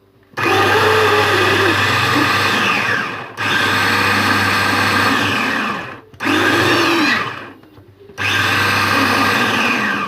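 Electric mini food chopper run in four loud pulses to mince onion and garlic together, the motor whining down in pitch each time it is released.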